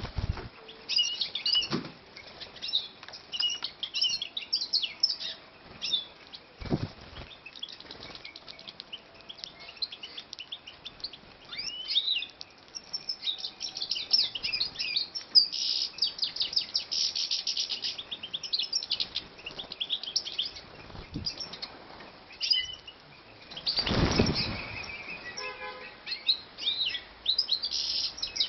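European goldfinches twittering and chirping in rapid, busy bursts of high notes, densest in the middle of the stretch. A couple of short noisy bursts cut in, one about a quarter of the way through and a longer one near the end.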